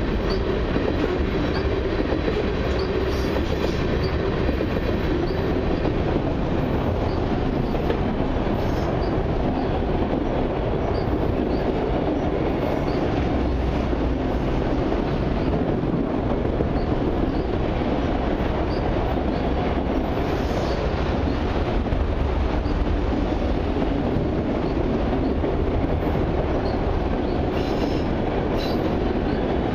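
Freight cars of a long mixed freight train rolling past at speed, tank cars giving way to autorack cars. The wheels rumble and clatter steadily on the rails, with brief faint high squeaks now and then.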